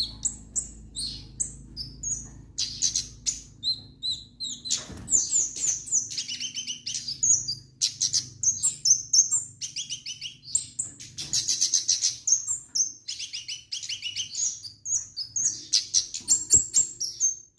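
A kemade songbird singing in full voice: an unbroken stream of high chirps, whistles and fast trills, with quick runs of short clicking notes.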